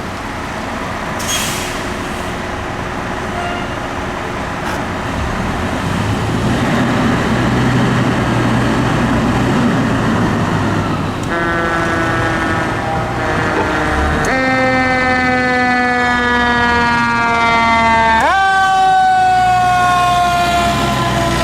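Fire apparatus pulling out, its engine running under traffic noise. About halfway through, a siren starts with a stack of tones. Its pitch falls slowly in long sweeps, then jumps sharply back up near the end and falls again.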